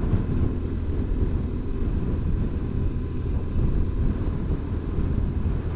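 Steady low rumble of a BMW R1200GS Adventure motorcycle under way, its boxer-twin engine running at a constant pace with road and wind noise.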